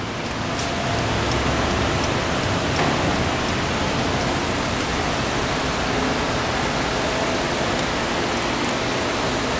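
1998 Honda VFR800 Interceptor's V4 engine running steadily at idle, an even hiss over a low hum.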